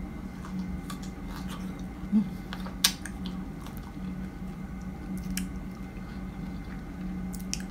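Close-up chewing of a bitten fresh strawberry, with scattered small mouth clicks and one sharper click about three seconds in, over a steady low hum.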